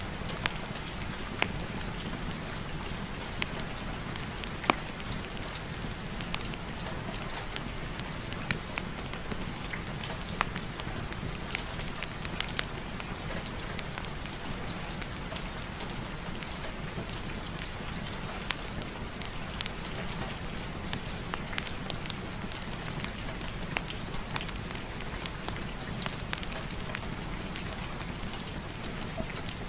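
Steady rain hiss mixed with a fireplace fire: irregular sharp crackles and pops scattered over the even rushing noise.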